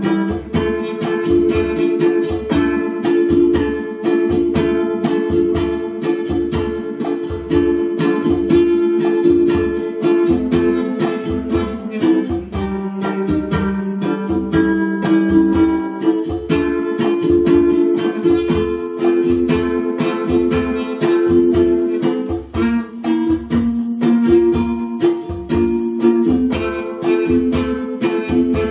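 Ukulele playing a melody over chords, with a steady beat of about two to three strokes a second.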